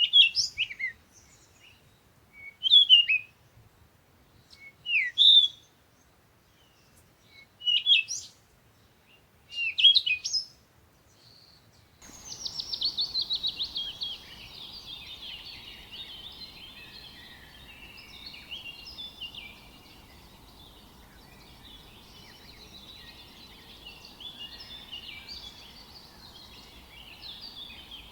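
Songbirds chirping: for the first half, single short down-slurred chirps about every two to three seconds with quiet between. Then the sound changes abruptly to a fast descending trill and a continuous chorus of many birds chattering over a soft background hiss.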